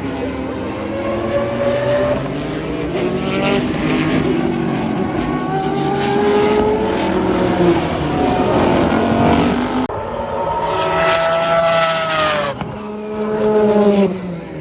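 Several 1980s–early-1990s IMSA GTP prototype race cars passing one after another at racing speed, their engine notes overlapping. The loudest pass comes about two-thirds of the way in, its pitch dropping as it goes by, with another car following just before the end.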